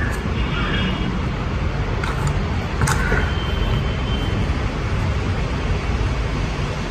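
Steady low background rumble of noise, of the kind passing road traffic makes, with a brief click about three seconds in.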